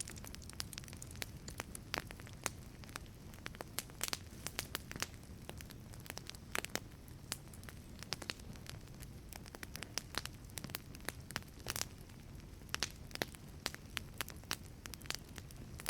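Wood fire crackling in a wood-fired pizza oven: frequent irregular sharp pops and snaps over a soft steady low rumble of the flames.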